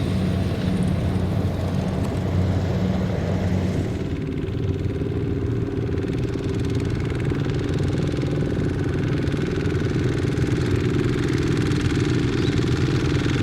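Small single-cylinder diesel engine of a Kubota ZT 155 tractor running steadily, its note changing about four seconds in.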